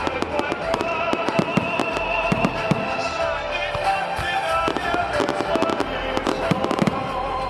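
Fireworks going off, a rapid string of sharp bangs and crackles, over music with held notes.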